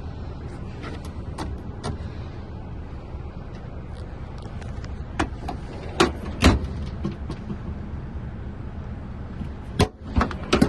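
DAF XF 480 truck with a steady low rumble under a scattering of sharp knocks and clunks, like doors or panels being shut, the loudest about six seconds in and again near the end.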